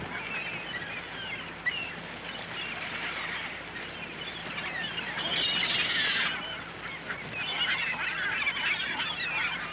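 Seagulls calling at the beach, many overlapping squawking cries over a steady background wash, with a louder burst of calls about halfway through.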